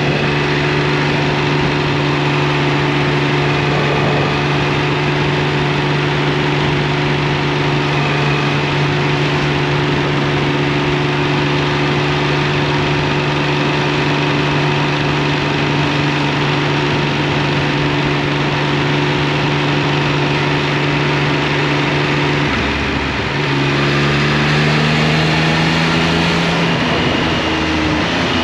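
Triumph Speed Triple 1200 RS inline three-cylinder engine running at a steady cruise. About 23 seconds in, the note breaks and then climbs in pitch in steps.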